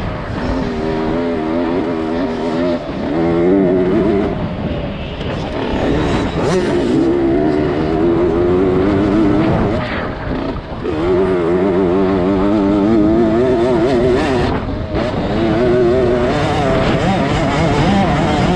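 Motocross bike engine heard from on board, revving hard with its pitch wobbling up and down as the throttle works through corners, and dropping off briefly a few times.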